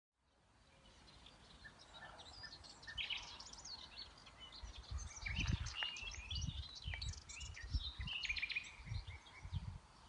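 Several songbirds chirping and singing, many short high calls and trills overlapping, fading in at the start. Low rumbles come and go from about halfway through.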